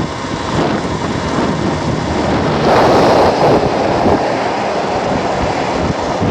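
Wind buffeting the microphone of a rider on an electric motor scooter travelling at about 44 km/h, a steady rushing noise. A louder rush about three seconds in lasts about a second.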